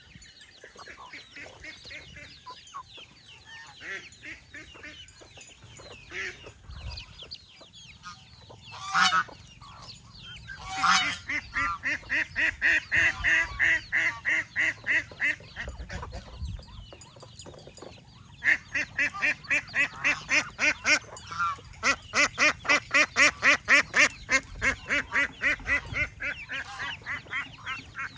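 Domestic geese and ducks calling: a few scattered calls, then two loud single calls about nine and eleven seconds in, followed by long runs of rapid, evenly repeated calls.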